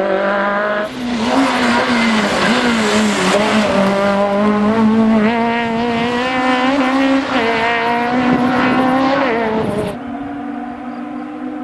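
Citroën Saxo Kit Car rally car's 1.6-litre four-cylinder engine running hard at high revs, its pitch dipping and climbing with throttle and gear changes, with tyre noise beneath it. Near the end the sound changes abruptly to a duller, steadier engine note.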